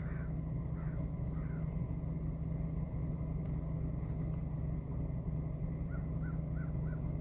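Steady low hum of an idling vehicle engine. Faint bird calls come through it, a couple about a second in and then a quick series of short notes, about three a second, near the end.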